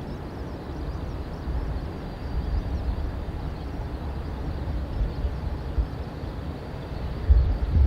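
Strong wind buffeting the microphone: an uneven low rumble that rises and falls in gusts, with a louder gust near the end.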